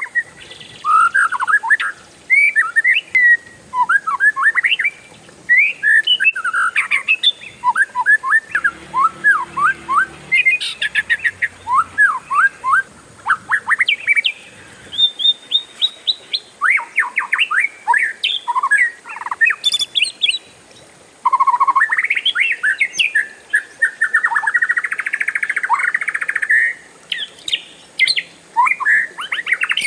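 Oriental magpie-robin (kacer) singing a long, busy song of quick whistled notes, sweeps and rapid trills, strung together almost without a break.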